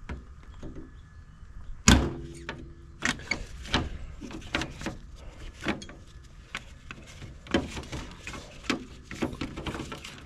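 Parts of a tractor loader joystick assembly being forced apart by hand: a run of irregular clicks, knocks and scrapes, the loudest knock about two seconds in.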